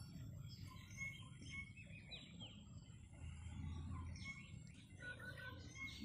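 Small birds chirping and calling, with many quick falling chirps and short repeated whistled notes over a faint low background noise.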